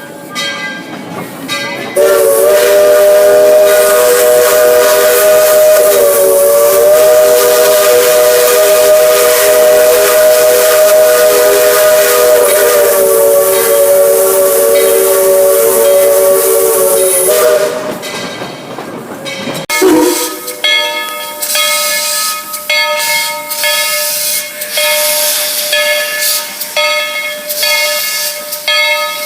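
Steam locomotive's chime whistle sounded in one long blast of about fifteen seconds, a chord of several notes. After it stops, steam hisses with a fainter steady whistle tone running under it.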